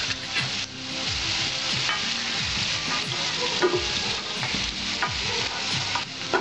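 Potato chunks frying in mustard oil in a metal kadai, the oil sizzling steadily. A metal spoon scrapes and knocks against the pan a few times as the fried potatoes are lifted out.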